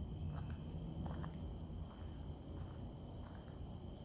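Steady chorus of insects trilling, several continuous high tones holding level over a low rumble, with a few faint short scuffs.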